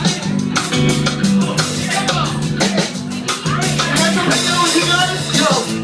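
A live hip-hop band playing an instrumental groove: steady drum-kit beat with bass and other instruments, before the rapping comes in.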